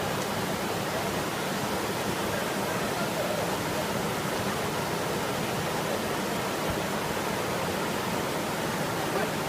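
Floodwater rushing past, a steady, even noise with no breaks.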